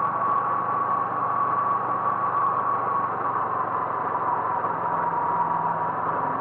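A road vehicle's engine running steadily, with a constant whine that drops slightly in pitch about four seconds in.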